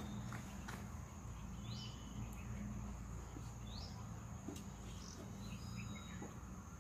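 Outdoor ambience: a bird giving a short rising chirp about every two seconds over a steady high insect drone, with a few faint clicks.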